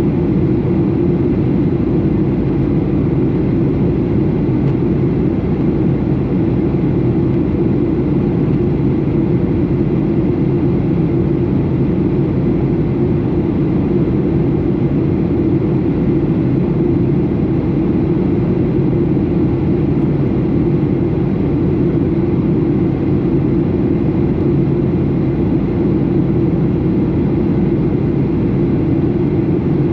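Steady cabin noise inside a Boeing 737 in flight: an even low rumble of jet engines and airflow, unchanging throughout.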